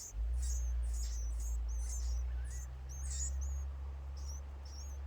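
Nestling birds giving begging calls: a steady series of short, high chirps, two or three a second, the sound of hungry chicks calling for food. A low rumble runs underneath.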